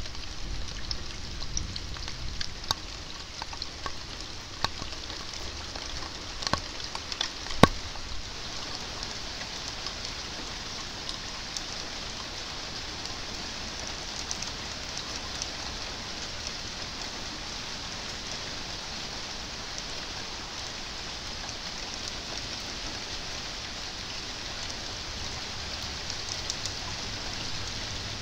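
Steady rain falling, an even hiss. Scattered louder drop hits come in the first several seconds, the sharpest about seven and a half seconds in.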